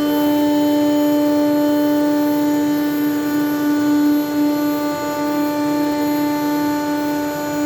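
ShopSabre Pro 408 CNC router running, its spindle giving a steady pitched whine over the hiss of the bit cutting through half-inch plastic sheet.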